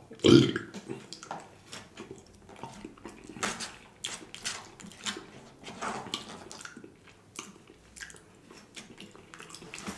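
Close-miked mouth sounds of a man eating: wet chewing and lip smacks, a scatter of short clicks, with one louder mouth sound right at the start.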